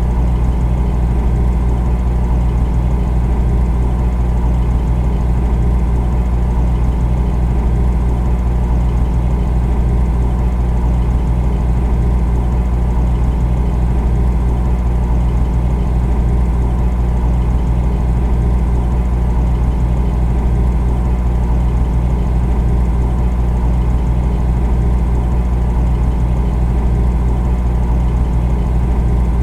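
Refrigerator compressor running: a steady low hum with no change over time.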